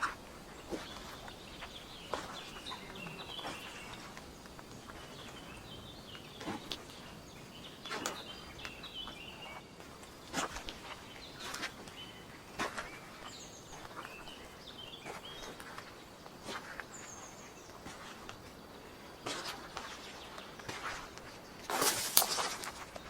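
Footsteps on a forest floor, irregular, every second or two, with a louder cluster of steps near the end, while small birds chirp in short twittering phrases and give a few brief high falling calls.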